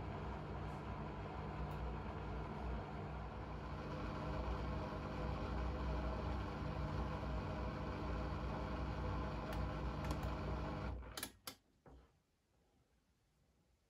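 Blomberg fuzzyDigitronic Granat 3200 washing machine running with a steady motor hum that stops suddenly about eleven seconds in, followed by a few sharp clicks and then near silence.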